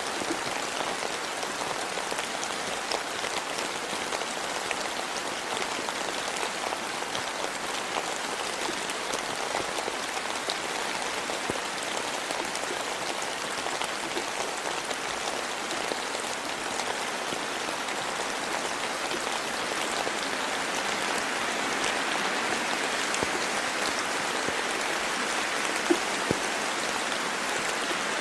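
Steady rain falling in a forest, a continuous hiss flecked with individual drops ticking, with two sharper drip clicks a couple of seconds before the end.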